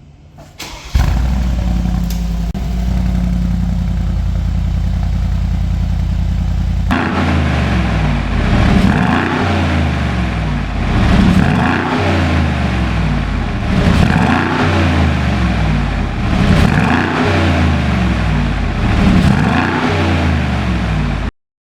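Mercedes-AMG G63's twin-turbo V8 through a custom valved aftermarket exhaust, running at a steady idle. About a third of the way in the sound changes abruptly, then the engine is revved about five times in even succession, each rev rising and falling. The sound cuts off suddenly near the end.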